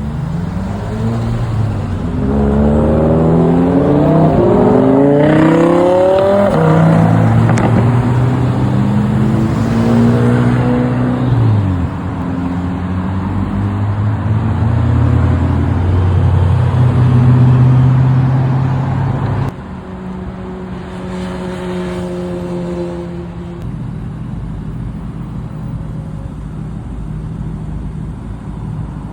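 Car engine revving, its pitch climbing several times, then holding a loud steady drone. About two-thirds through the level drops abruptly to a quieter steady engine hum.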